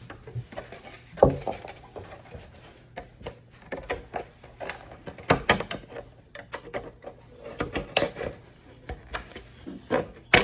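Edges being cut off thin plastic helmet kit parts: a run of irregular sharp snips and crackles, with a louder knock about a second in.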